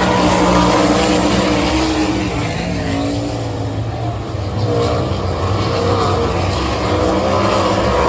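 410 winged sprint car engines racing on a dirt oval, several at once at different pitches, their note falling away about halfway through as the cars pass and building again as they come back around.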